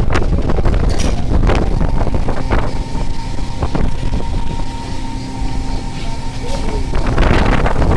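Deck noise aboard a longline fishing boat at sea: a low rumble of engine and wind on the microphone, with scattered knocks. A steady machinery hum runs through the middle, and a louder rush of wind or water comes near the end.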